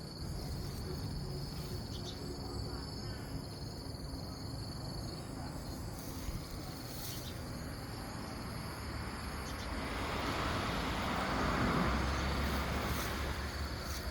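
Outdoor rural ambience: insects (crickets or cicadas) give a steady high-pitched drone, over rough background noise. About ten seconds in, a broad rushing noise with a low rumble swells up and stays to the end.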